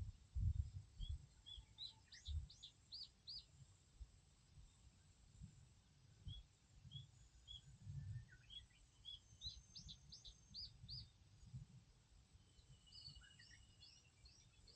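A songbird singing faintly: a few spaced soft notes, then a quick run of high chirping notes, a phrase that comes about three times. Irregular low rumbling thumps run underneath.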